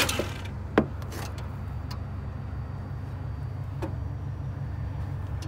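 Low steady rumble with a single sharp click about a second in and a few faint clicks after, just as the S10/S15 pickup's attempt to start stops without the engine catching.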